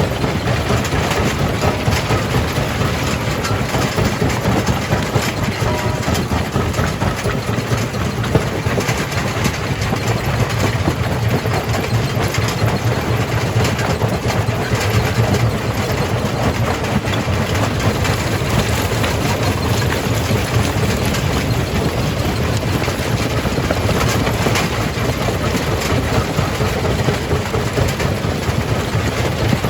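Jaw crusher running and crushing rock: a steady, heavy machine drone with a dense crackle of small impacts from stone breaking and shifting.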